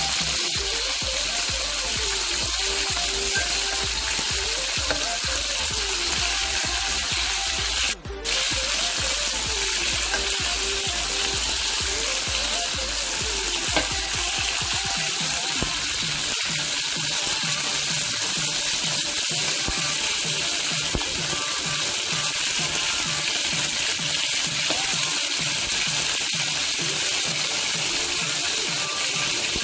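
Chicken wings sizzling in hot oil in a carbon-steel wok, a steady frying hiss, with a metal spatula scraping and stirring them. The sound breaks off for a moment about eight seconds in.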